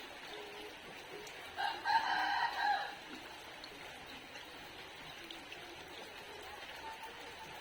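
A rooster crows once, a single call of a little over a second, over the steady hiss of falling rain.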